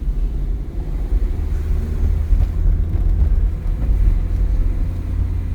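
Car being driven, heard from inside the cabin: a steady low rumble of engine and road noise with a faint engine hum.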